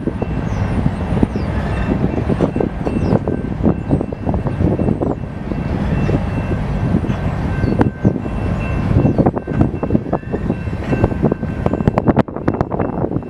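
A BNSF train rolling past close by: a dense, continuous rattle and clank of wheels and cars, full of sharp clicks, with a thin high whine held underneath.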